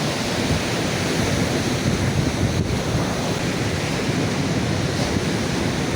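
Strong wind buffeting the microphone over the steady wash of surf on a beach.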